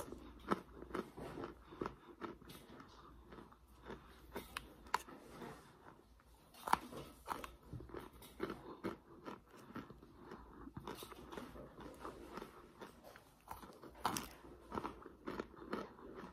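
Close-up biting and chewing of crockpot-baked chunks of Argo laundry starch: many small, irregular crunches and clicks, with a few sharper snaps.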